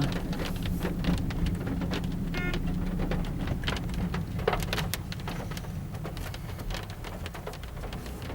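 Inside a moving car: a steady low rumble from the engine and tyres, with scattered sharp ticks of raindrops hitting the car.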